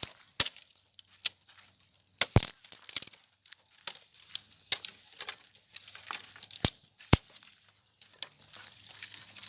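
Dry sticks and twigs snapping and crackling as firewood is gathered by hand: a string of irregular sharp cracks with dry, crunchy rustling between them, the loudest cracks a little over two seconds in and about seven seconds in.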